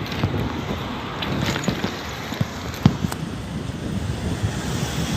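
Wind buffeting the microphone of a moving bicycle, with a few sharp knocks and rattles from the bike, the loudest a little under three seconds in.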